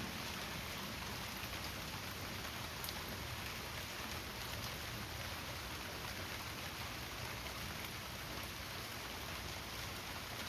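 Heavy rain falling steadily on concrete, an even, unbroken patter.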